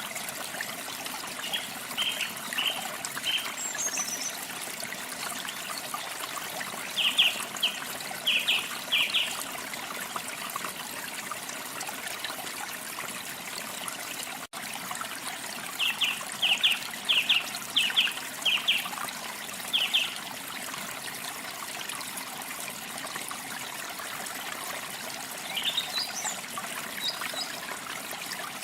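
Water trickling steadily, like a small stream, with a songbird calling over it: several groups of short, clear chirps, and a rising run of notes near the end.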